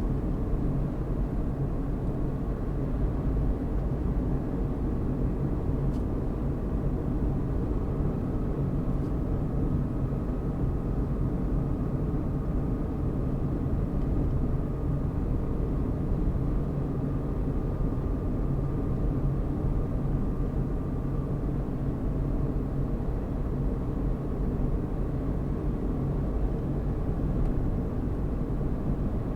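Car driving at a steady pace: constant engine and tyre-on-road rumble. A faint thin whine rises above it from about eight seconds in and fades out after about twenty.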